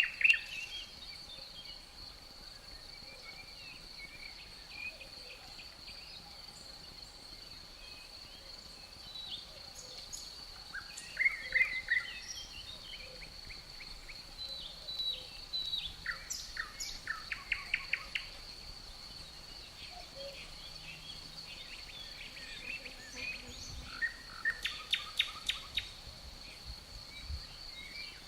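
Crickets keeping up a steady, high, unbroken trill, with songbirds breaking in several times with short bursts of rapid chirps.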